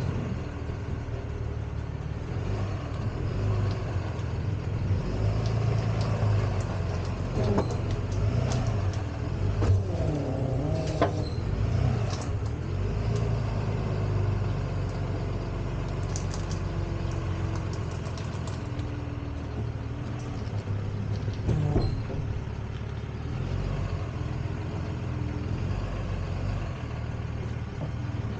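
Tow truck engine running steadily, with a few sharp knocks and clanks.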